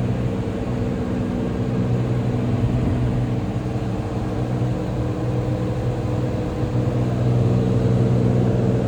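Engine of a Cirrus light aircraft running with a steady low drone, getting a little louder about seven seconds in.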